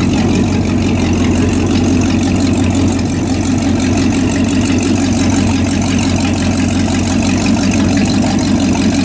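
An engine running steadily at idle, a low even drone that neither rises nor falls.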